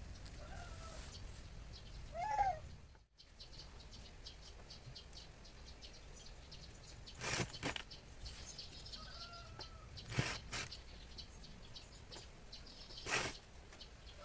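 Short bird calls with rising-and-falling pitch, about 2 seconds in and again about 9 seconds in, with three brief rustling noises spaced a few seconds apart.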